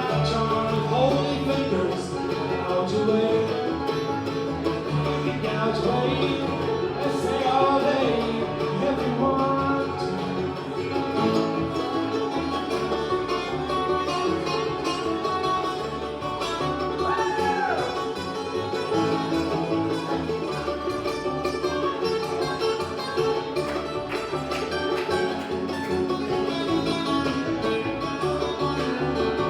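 A bluegrass band playing live, with picked banjo and guitar, and one short sliding note about two-thirds of the way through.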